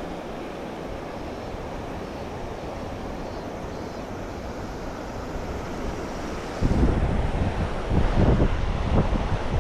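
Wind on the microphone: a steady rushing hiss, then heavy low gusts buffeting the mic from about two-thirds of the way in.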